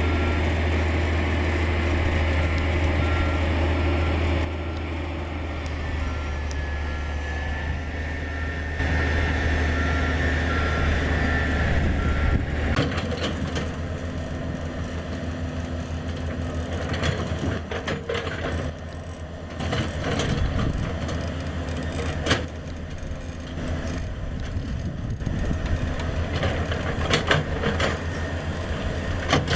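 Diesel engine of a Komatsu GD555 motor grader running steadily, with a reversing alarm beeping regularly until it stops a little under halfway through, when the engine note changes. After that come scattered metallic clanks and knocks.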